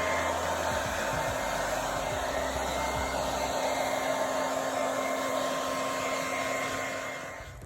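Handheld hair dryer running steadily, drying a damp car seat pad; it dies away near the end.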